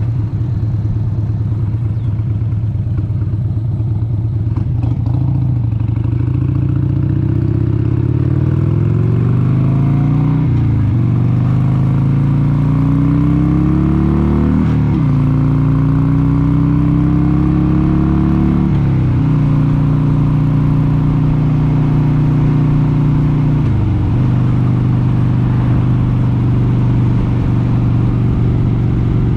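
1996 Harley-Davidson XLH883 Sportster's air-cooled 883 cc V-twin on the road, accelerating through the gears. The engine note climbs and drops back at each upshift, about ten, fifteen and nineteen seconds in, then settles into a steady cruise.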